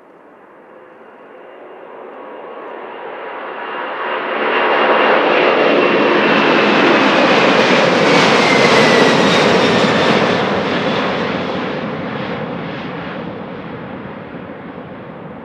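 Boeing 747-400F's four jet engines running at high power as it passes close by: a loud jet roar that builds over about five seconds, holds, then fades, with a high whine that drops in pitch as it goes past.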